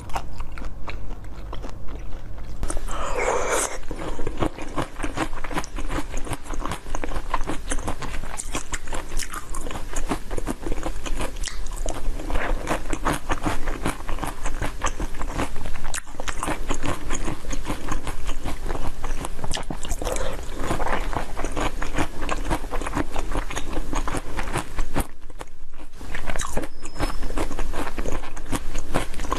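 Close-miked eating: biting and chewing of dark red jelly pieces with bits of fruit in them, a dense run of small clicks. There is a cut near the start and a brief pause about three quarters through.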